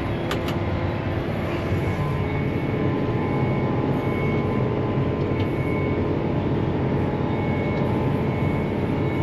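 Large John Deere diesel tractor engine running steadily under way, a dense even drone.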